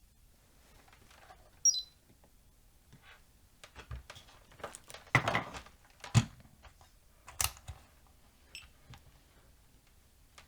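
Workbench handling sounds: scattered clicks, taps and knocks of test probes and tools against a circuit board while a suspect transistor is checked. There is one short, high electronic beep just under two seconds in.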